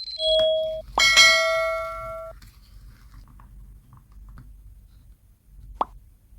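Bell-like chime: a short held tone, then a struck ring about a second in that rings out for about a second, followed by faint rustling and a single sharp click near the end.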